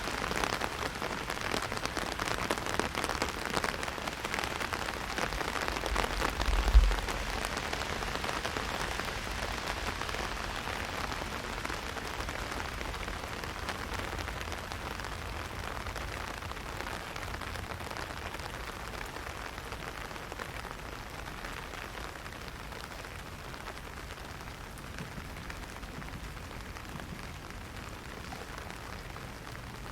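Heavy rain striking an umbrella overhead, a dense spray of fine drops that eases slightly over the stretch. A single low thump about seven seconds in.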